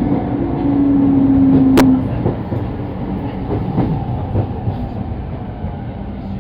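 Sotetsu Line commuter train running, heard from inside the car: a steady rumble with a motor tone that drops slightly in pitch and fades about two seconds in. A sharp wheel-on-rail click comes just before the tone fades, and the running noise then eases off.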